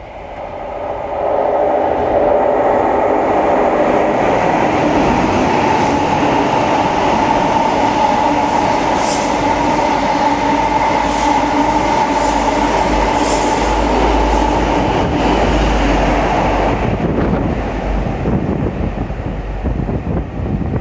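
Midland Pullman HST diesel train passing through the station at speed without stopping. Its loud, steady engine note with a held whine builds over the first two seconds, with clicking from the wheels in the middle of the pass. The sound fades after about seventeen seconds, leaving wind rumble.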